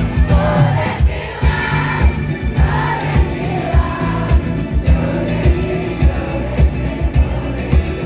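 Live pop concert music over a large PA, heard from among the audience: band with a heavy, steady bass beat and singing, with crowd voices mixed in.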